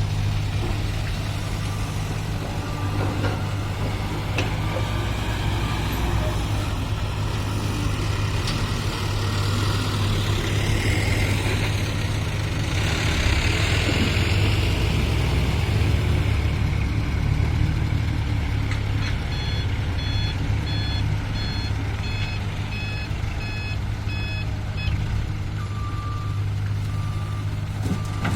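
Heavy diesel engines of dump trucks and site machinery running steadily, swelling louder for a few seconds midway. Reversing alarms beep repeatedly: one lower beep at the start and near the end, and a higher, faster beeping in the second half.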